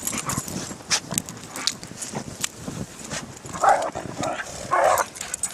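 Dogs playing in snow: two short barks about two-thirds of the way in, over scattered crunching and scuffling.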